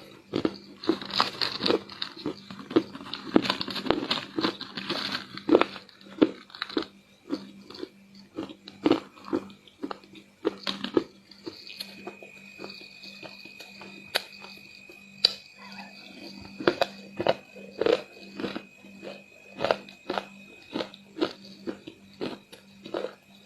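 Close-miked crunching and chewing of crispy chocolate chunks in chocolate paste: a dense run of crunches for the first several seconds, then sparser, sharp individual crunches and mouth clicks.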